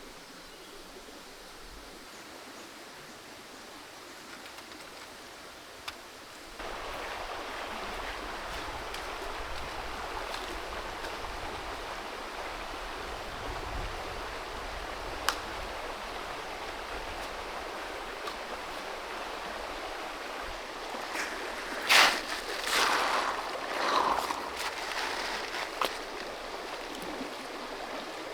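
Creek water flowing in a steady rush, growing louder about a third of the way in. Near the end a cluster of louder, sudden noises rises above the water.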